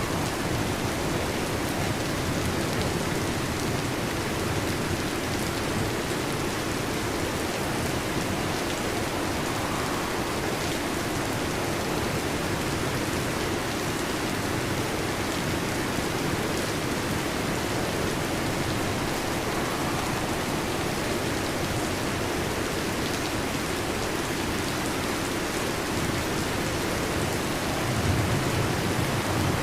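Heavy rain falling steadily, an even hiss of many drops. A low rumble of thunder begins near the end.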